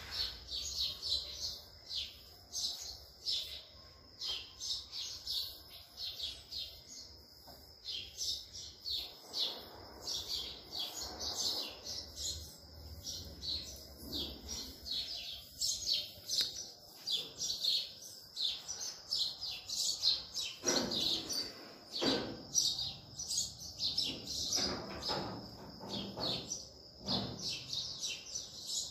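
Small birds chirping rapidly and continuously, high-pitched calls repeated several times a second. A few dull knocks come in over the last several seconds.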